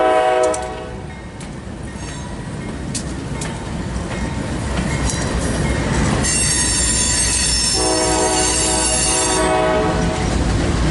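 Trailing GE AC4400CW diesel locomotives rumble past at close range, followed by loaded coal hopper cars. A held horn chord cuts off about half a second in. From about six seconds in, the wheels squeal high-pitched on the rails for a few seconds, with lower squealing tones joining near eight seconds.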